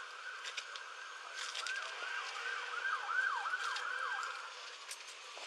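An emergency vehicle's siren in a fast yelp: quick repeated pitch sweeps, several a second, that cut off about four and a half seconds in. A few sharp clicks are heard among them.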